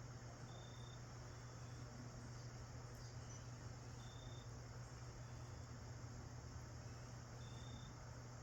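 Faint cricket chirps, three short high notes spaced about three and a half seconds apart, over a steady low hum and hiss.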